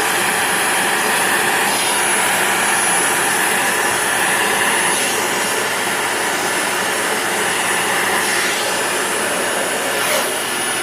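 Dyson DC40 upright vacuum cleaner running steadily with a high whine, sucking up leftover debris through its hose. The tone of the airflow shifts a few times as the nozzle moves over the floor.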